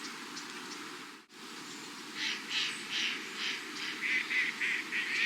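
Mandarin ducks calling: a run of short repeated calls, about three a second, starting about two seconds in over a steady hiss. The hiss drops out briefly a little over a second in.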